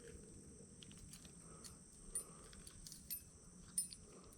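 Faint, steady high-pitched insect chorus, with three sharp clicks or taps about two, three and four seconds in.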